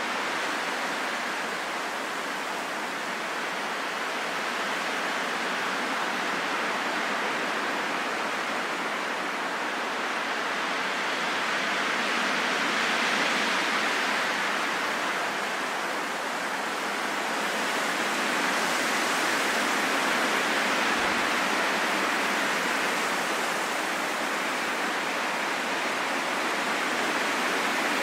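Wind blowing steadily as a smooth rushing noise with no whistle or howl, swelling and easing gently in a few slow gusts.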